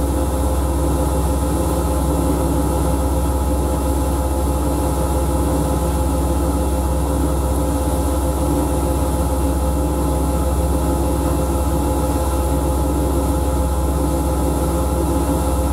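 Siemens Siwamat front-loading washing machine running: a steady, unbroken motor hum with a deep drone and constant whining tones, no change in speed.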